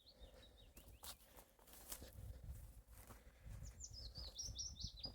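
A small songbird sings a quick run of short high notes falling in pitch, once at the start and again near the end, with a couple of sharp clicks in between.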